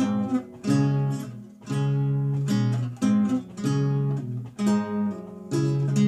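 Renaissance lute played solo: plucked chords and single notes, each ringing and dying away, about one or two strokes a second.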